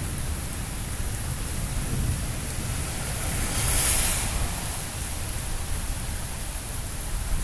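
Rain falling steadily during a thunderstorm, with a low rumble underneath throughout and a brief louder hiss about halfway through.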